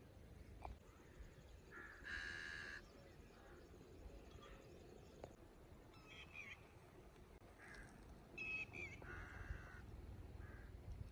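Faint bird calls: a few harsh, drawn-out calls, the loudest about two seconds in and again between eight and nine and a half seconds, with quieter ones in between.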